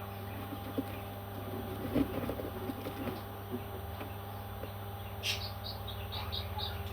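Pet parrot giving a quick run of short, high chirps, about five a second, near the end, just after a click. Some low soft sounds come about two seconds in, over a steady electrical hum.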